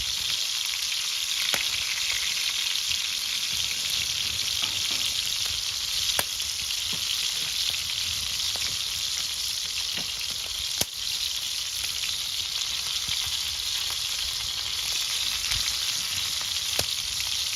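Fish frying in hot oil, a steady sizzle with a few sharp pops spread through it; the pieces are browned and nearly done.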